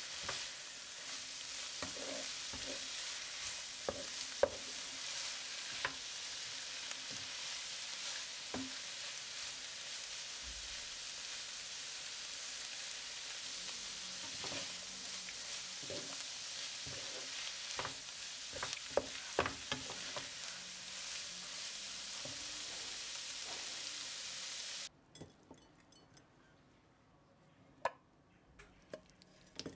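Shredded cabbage, carrot and green chili sizzling as they stir-fry in a pan, with a spatula knocking and scraping against the pan now and then. The sizzle cuts off suddenly near the end, leaving only a few faint clicks.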